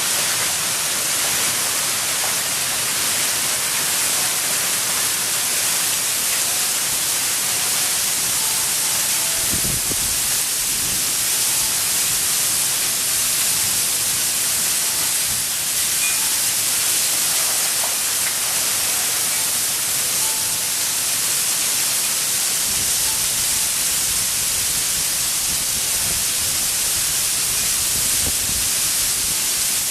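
Small hail falling steadily in a thunderstorm, a dense, even hiss with no let-up.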